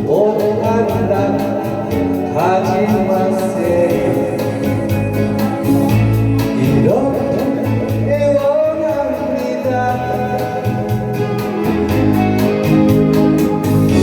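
Singing over a backing track with a steady beat: a Korean song performed live.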